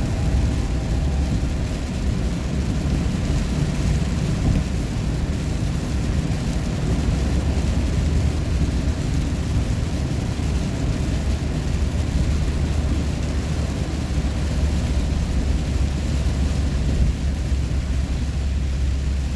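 Steady low drone of a car driving on the road, under an even hiss of tyre and wind noise.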